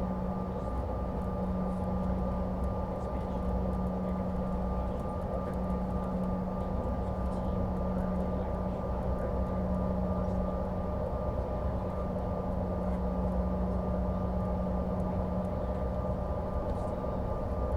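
Steady cabin drone of a CRJ-550 regional jet: a low rumble of engine and airflow with a constant hum and a few higher steady tones, unchanging throughout.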